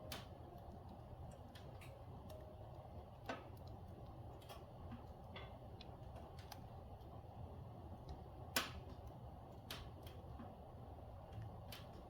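Firewood burning, crackling with about seven scattered sharp pops at irregular intervals; the loudest pop comes a little past the middle.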